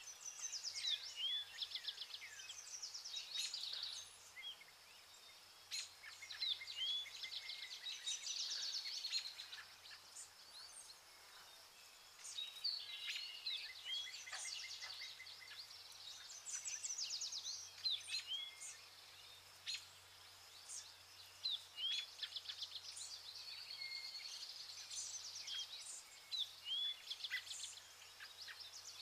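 Birds singing and chirping in repeated phrases of rapid trills and short down-slurred notes, over a faint low hum.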